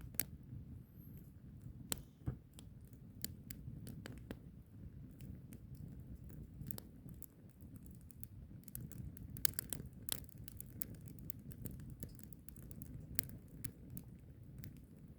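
Wood fire crackling, with irregular sharp pops throughout over a steady low rumble. The biggest pops come right at the start, about two seconds in, and around nine to ten seconds in.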